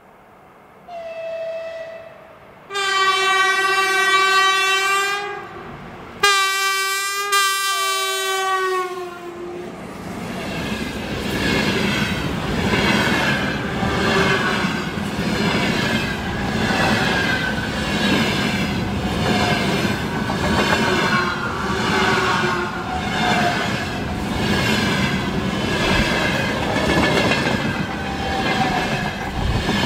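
A 2ES6 Sinara electric locomotive sounds its horn: a short higher note, then two long blasts, the pitch of the second sagging at its end. Its freight train then rolls past with a steady, rhythmic clatter of wagon wheels over the rail joints, about one beat a second.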